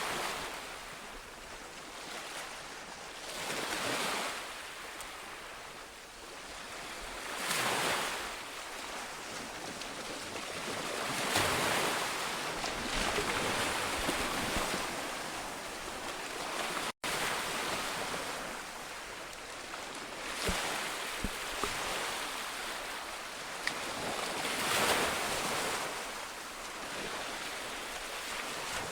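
Sea waves breaking on a shore, the surf swelling and washing back every few seconds in a steady rhythm. The sound cuts out for a split second about 17 seconds in.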